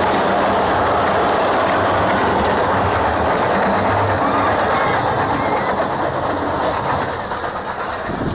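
Mine-train roller coaster running on its track: a loud, steady rumble and rattle of the cars on the rails, easing off slightly near the end.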